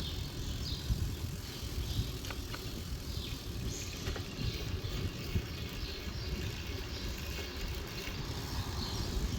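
Riding noise from a bicycle on a street: an uneven low rumble of wind buffeting the microphone and road noise, with faint short high chirps now and then.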